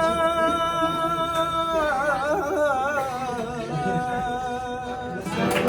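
A man singing an Arabic mawwal without words, on long held notes. The first note is held, breaks into a wavering melismatic run about two seconds in, then settles on a second held note that stops about five seconds in.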